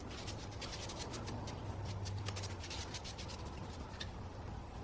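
Body filler being scraped and smoothed over a curbed aluminum wheel rim, a rapid irregular run of short scratchy strokes, over a steady low hum.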